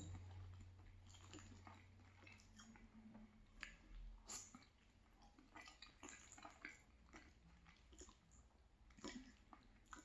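Faint close-miked chewing of a mouthful of food, with irregular soft wet mouth clicks and smacks.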